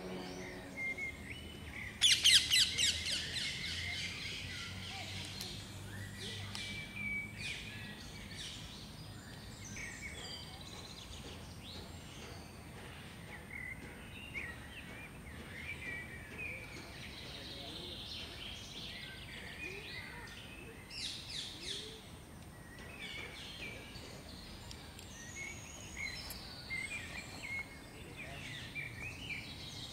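Songbirds chirping and singing, many short calls overlapping, with a loud, rapid trill about two seconds in and another quick run of notes around twenty seconds later.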